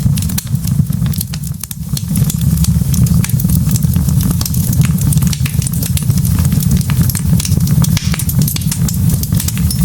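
Wood log fire burning, with many sharp crackles and pops over a steady low rumble.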